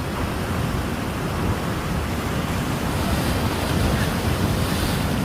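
Winter sea waves breaking on the shore: a continuous rush of surf with a deep rumbling low end. The hiss swells louder a little past halfway.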